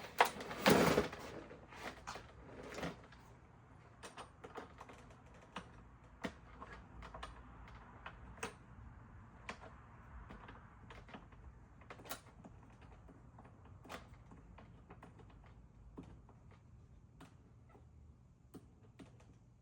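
Light, irregular clicks and taps of hand-worked tools or parts being handled, with a short louder clatter about a second in.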